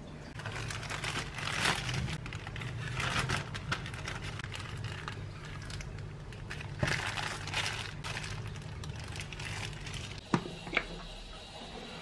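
Crinkling and rustling handling noise that comes and goes in swells, with two sharp clicks near the end.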